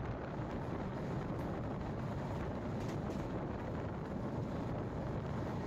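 Steady rumble of a moving passenger train, heard from an open door or window of the coach, with wind rushing over the microphone.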